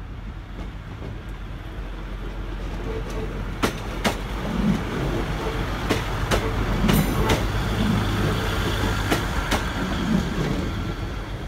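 A two-car diesel multiple unit running past at close range, its underfloor diesel engine humming steadily. The sound swells and then fades as the train goes by. Its wheels click sharply over rail joints and pointwork several times as it passes.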